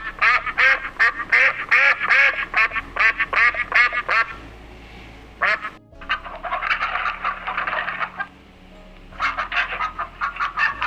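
Ducks quacking in fast runs of short calls, several a second and overlapping, with brief lulls about four and eight seconds in.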